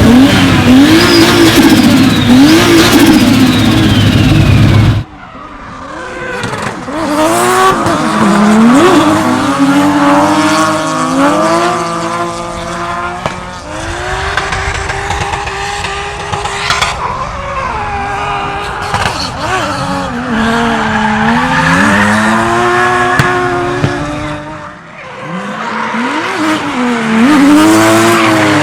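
Toyota Supra MK4's turbocharged 2JZ straight-six revving up and down again and again under drift, with tyres squealing. The sound breaks off sharply about five seconds in and dips near the end, where one clip gives way to the next.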